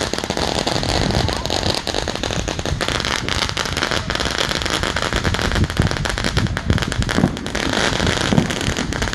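Fireworks crackling: a dense, continuous run of rapid small pops that keeps up without a break.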